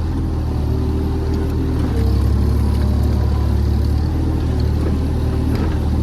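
JCB JS30 Plus mini excavator's diesel engine running under heavy hydraulic load as the bucket strains against a root locked in rock. The engine note gets louder and heavier about two seconds in and holds there.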